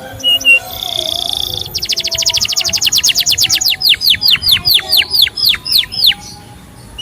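Male canary singing: a short buzzy note, then a fast trill that slows into a string of loud downward-sweeping whistled notes, stopping about a second before the end.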